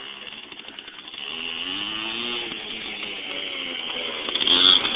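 Dirt bike engine revving up and down as it is ridden, its pitch rising and falling, louder from about a second in and loudest near the end.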